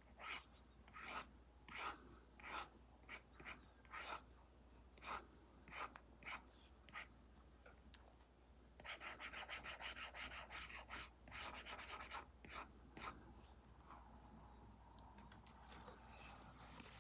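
Apple Pencil Pro tip scratching across a paper-like screen film on an iPad in short separate strokes, then quick back-and-forth scribbling for about three seconds near the middle, then a few more strokes before it goes faint.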